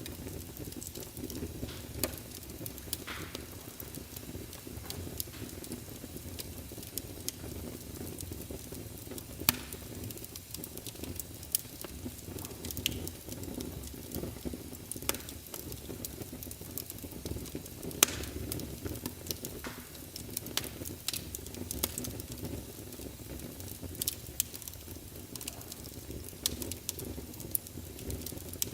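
Wood fire of burning logs, a steady low rumble of flame with scattered sharp crackles and pops; the loudest pops come about ten and eighteen seconds in.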